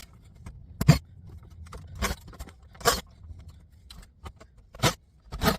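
Scattered clicks and knocks of parts and hand tools being handled while a CD player is taken apart: about half a dozen separate sharp knocks, the loudest about a second in.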